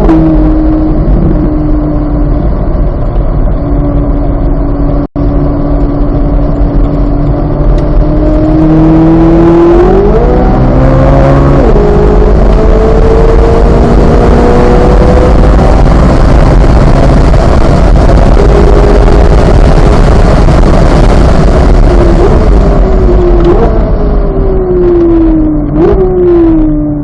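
2023 Chevrolet Corvette Z06's flat-plane-crank V8 at speed, its pitch holding, then climbing under acceleration with heavy wind and tyre noise. Near the end it gives two sharp blips up in revs, each followed by a falling pitch: downshifts under braking. The sound cuts out for a moment about five seconds in.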